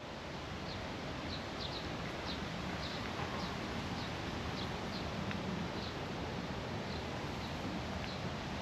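A small bird chirping over and over, short high chirps about one or two a second that grow fainter toward the end, over a steady background hiss and rumble of outdoor noise.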